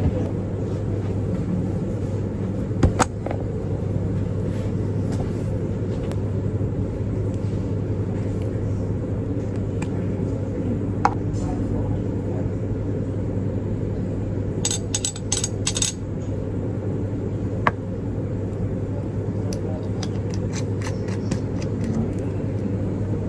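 Steady low rumble with a few scattered clicks, and a brief metallic jingle of small objects about fifteen seconds in.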